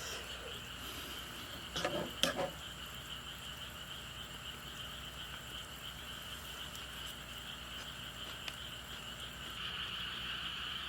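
Steady high-pitched chorus of insects, with a short clatter of a few knocks about two seconds in.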